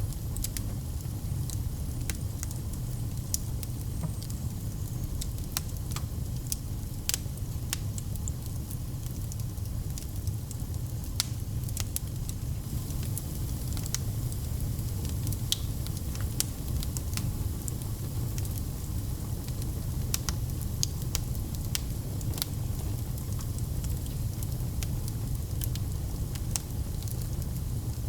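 Fire burning in a fireplace: a steady low rumble of flames with frequent, irregular crackles and pops.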